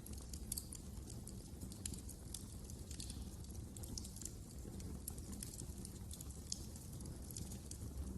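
Wood fire crackling in a fireplace: irregular small pops and snaps over a low steady rumble of the flames.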